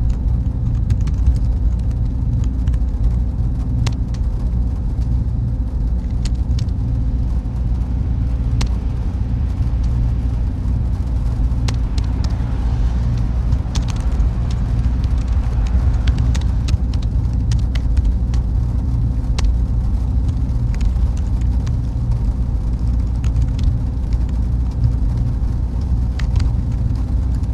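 Server room ambience: a steady low hum of cooling fans and air handling, with a faint steady tone above it and scattered light clicks.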